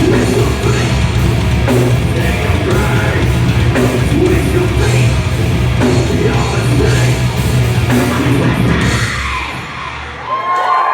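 Loud heavy rock music with yelled vocals, dying away a second or so before the end.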